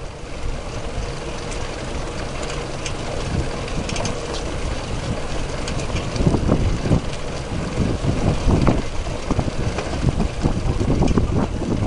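Wind buffeting the microphone, with low rumbling gusts and a few faint clicks.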